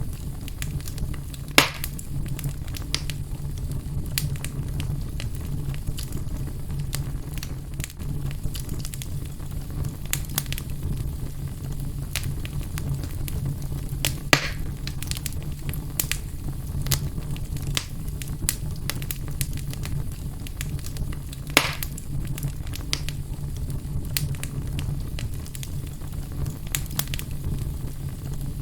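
Wood fire crackling in a fireplace: a steady low rumble under many small scattered crackles, with three louder pops, about a second and a half in, about halfway through, and about three quarters through.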